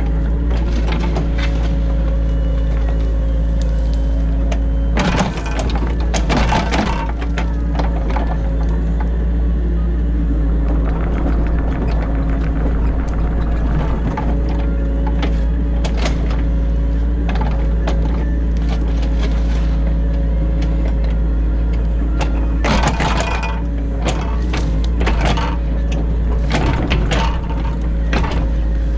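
Excavator heard from inside the cab: the diesel engine runs steadily under load while it digs silt out of a drainage ditch. Short clanks and scrapes from the bucket come twice in clusters, about five seconds in and again near the end.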